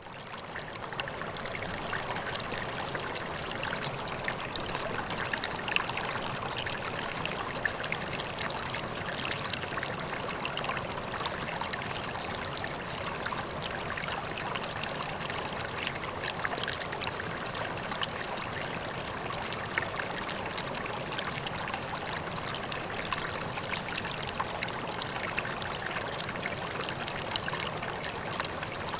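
Water splashing and trickling steadily into a koi pond, a continuous bubbling, splashy running-water sound with small splashes throughout. It fades in over the first second or two.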